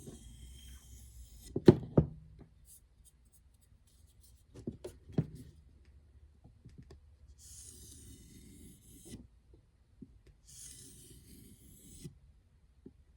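Knife blade drawn across a leather strop loaded with diamond spray, giving stretches of soft hiss as the edge is stroked, with a few knocks from handling, two loud ones about two seconds in.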